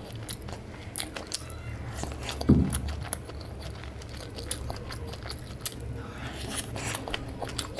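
Close-miked chewing of a steamed chicken momo with chutney: many small wet smacks and clicks of the mouth. A single low thump sounds about two and a half seconds in.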